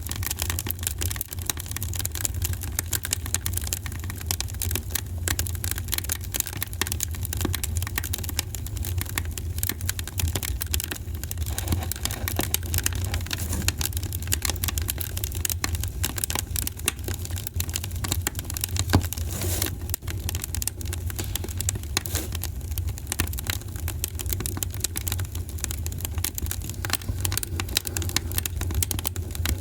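Wood fire crackling in a fireplace: dense small pops and snaps over a steady low rumble, with one louder pop about nineteen seconds in.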